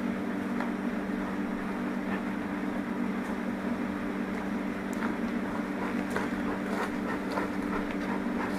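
A large honeybee colony buzzing: a steady, unbroken hum, with a few faint clicks over it.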